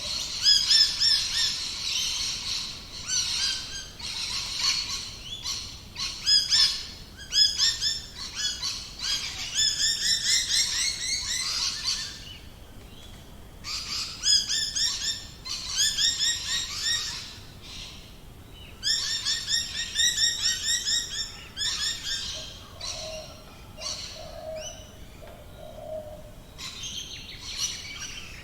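Australian bush birds calling: repeated bouts of rapid, high chirping notes, each bout a couple of seconds long, with a few low hooting notes near the end.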